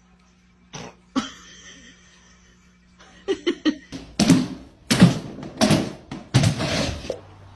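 Two light knocks, then a run of harsh coughs: a few short ones, then several louder hacking coughs, stopping about seven seconds in.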